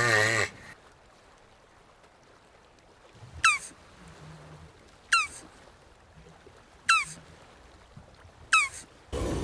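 Jabuti tortoise calling: four short clucks, each dropping in pitch, spaced about a second and a half to two seconds apart.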